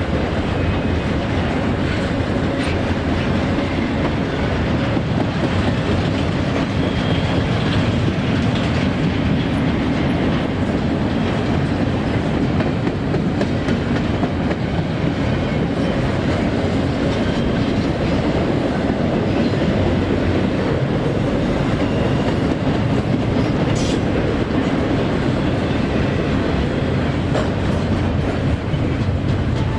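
CSX freight train's cars rolling past, a steady rumble of steel wheels on rail with clickety-clack over the rail joints.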